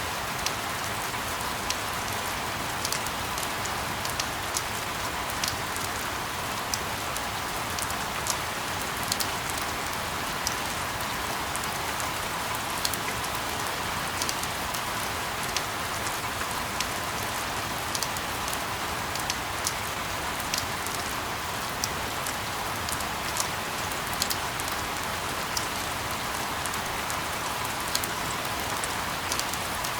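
Steady rain: an even hiss with many scattered sharp drops ticking.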